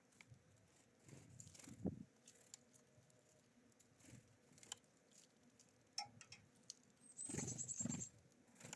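Small birds at a feeder: faint scattered pecking ticks and rustling, with a brief run of quick, high notes near the end.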